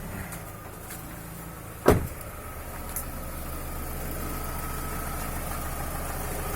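2007 Chevrolet Lacetti 1.8-litre petrol engine running just after being started, with one sharp knock about two seconds in and a steady running note after it. The engine has a slight clatter, sounding like gas injectors clicking, which the owner suspects comes from the intake manifold flaps rather than the hydraulic lifters.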